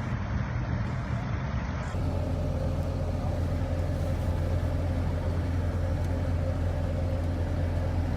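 Amphicar's rear-mounted Triumph four-cylinder engine running steadily, a low drone that grows stronger and steadier about two seconds in.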